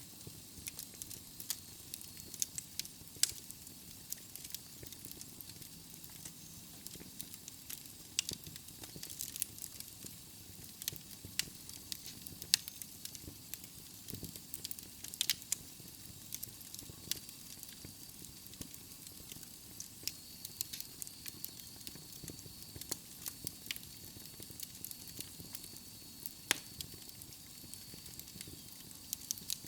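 Wood fire burning in a fireplace: irregular sharp crackles and pops from the logs over a soft steady hiss of the flames.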